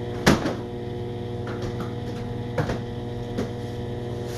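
Microwave oven running a steam-cleaning cycle with an Angry Mama cleaner inside, giving a steady electrical hum. Several sharp knocks sound over it, the loudest about a quarter second in and fainter ones past the middle and at the very end.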